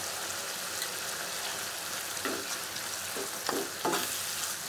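Onion and capsicum sizzling steadily in hot oil in a pan. From about halfway through, a wooden spatula stirs the pieces in a few separate strokes.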